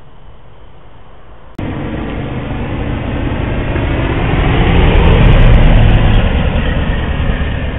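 1977 Corvette's small-block V8 running through a new custom-built exhaust. The sound jumps up suddenly about a second and a half in, swells to its loudest a little past the middle, then eases off.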